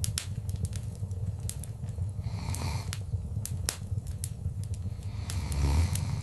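Wood fire crackling: frequent sharp pops and snaps over a steady low rumble, with two short hissing spells, one midway and one near the end.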